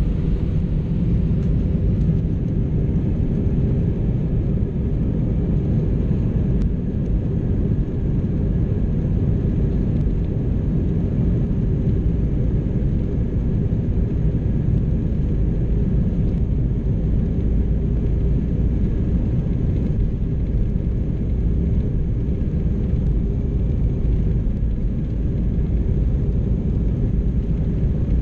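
Steady low rumble of an Airbus A319 airliner's jet engines and airflow, heard from inside the passenger cabin in flight.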